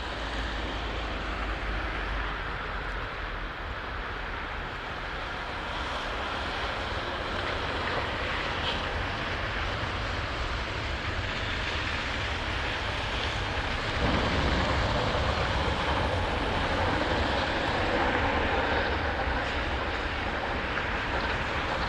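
Heavy vehicle running steadily, a low engine rumble mixed with a broad rushing noise, growing louder about two-thirds of the way through.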